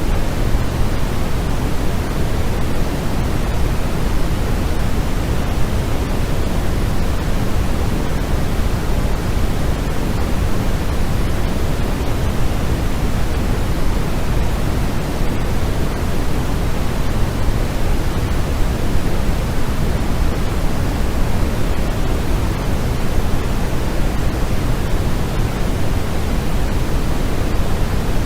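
Steady, unchanging white noise for sleep, a continuous even hiss that is strongest and deepest at the low end, closer to pink noise than flat white noise.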